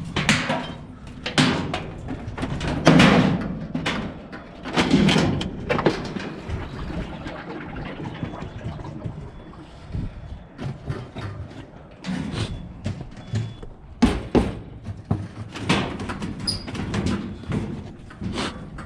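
Scrap being handled and loaded: irregular bangs, knocks and clatter of pieces being dropped and thrown, some heavy and some light, with a short lull near the middle.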